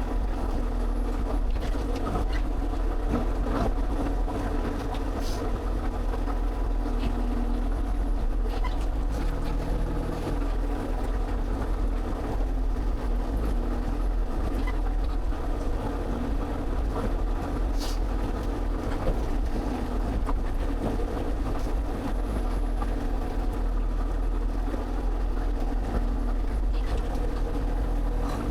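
Excavator's diesel engine running steadily, with a few faint clicks now and then.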